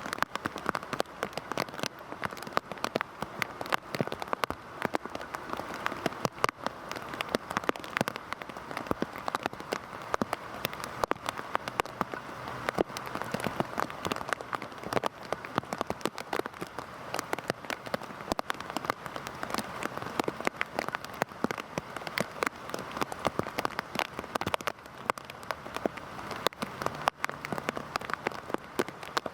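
Heavy rain falling steadily on a surface, a dense patter of individual drops over an even hiss.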